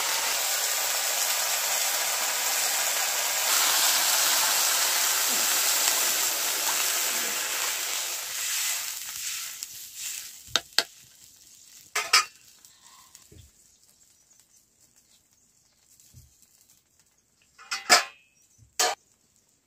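Vegetables frying and sizzling in oil in a wok over a wood fire; the sizzle dies away a little under halfway through as water goes into the pan. After that, a few sharp clinks of utensils against the pan.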